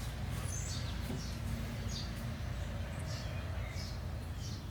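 A bird chirping repeatedly, short falling notes about once or twice a second, over a steady low background rumble.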